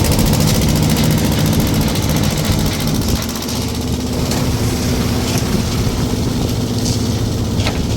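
An engine running steadily at a constant speed, with a few light knocks in the second half.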